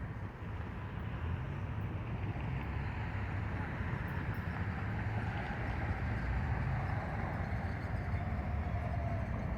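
Freight train led by two GE ET44C4 diesel locomotives approaching: a low engine rumble that grows slowly louder.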